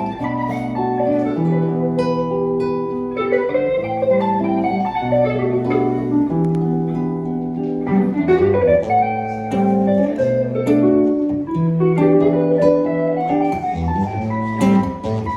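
Instrumental guitar jam with no singing: acoustic guitar chords under sustained, bending lead notes from an electric guitar.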